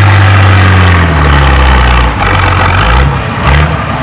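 International 660 tractor's engine pulling a tractor-pull sled under full load, holding steady at first. From about a second in, its pitch falls as the engine lugs down under the sled's growing weight, near the end of the pull.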